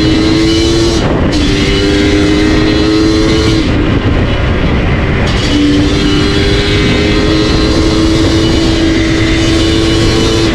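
Yamaha DT125's single-cylinder two-stroke engine running through an MCF expansion-chamber tune pipe, its note climbing slowly under throttle. The note breaks off briefly about a second in and again for about two seconds from near four seconds, then pulls and climbs again.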